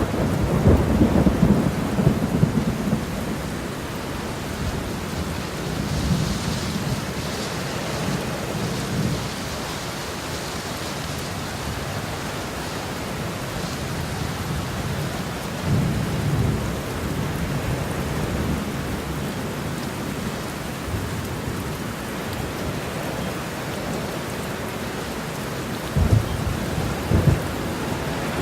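Thunderstorm: steady rain falling while thunder rumbles several times, loudest in the first few seconds. Two short low thumps come near the end.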